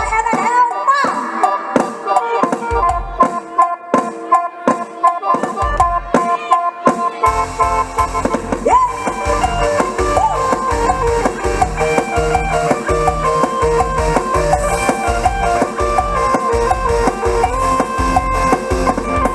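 Mor lam sing band playing an instrumental passage: sparse struck and plucked notes over held tones, then about seven seconds in the full band with bass and a fast, steady drum beat comes in.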